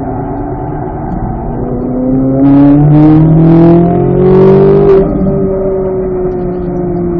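Chevrolet C8 Corvette Z06's 5.5-litre flat-plane-crank V8 pulling hard in third gear, its pitch rising for about five seconds as the car accelerates, then levelling off and easing down as the driver lifts. A few short rushes of hiss ride over the top while it is loudest. Heard from inside the cabin.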